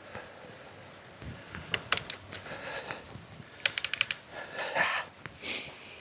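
A cyclist breathing hard on a steep climb, with heavy breaths about two and a half, five and five and a half seconds in. Two quick runs of sharp clicks from the bicycle, about two seconds in and again about four seconds in.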